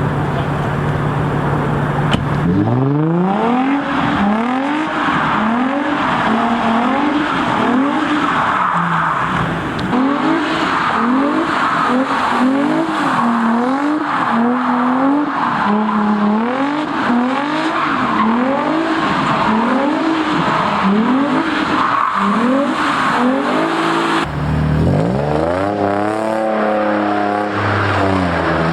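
Sports car's V6 engine revving up and falling back over and over, about once a second, with the hiss of tyres spinning on wet pavement, as the car does donuts. Near the end the sound cuts to a lower, steadier engine note.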